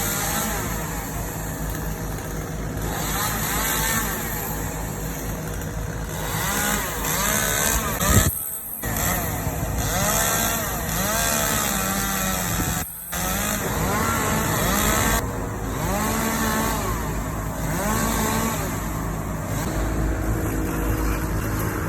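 Chainsaw engine revving up and down again and again, pitch rising and falling with each burst, with two brief sudden drops in sound partway through.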